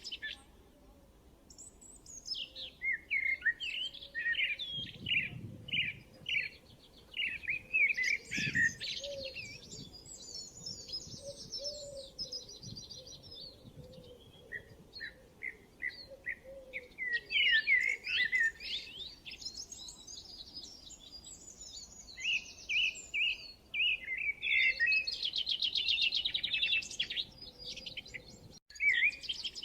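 Songbirds singing: a busy run of quick chirps and whistled notes, with fast trilling phrases around the middle and again near the end.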